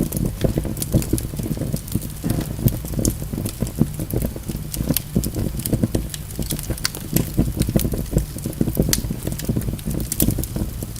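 Logs burning in a fireplace: a dense low crackle of flames with many sharp, irregular pops.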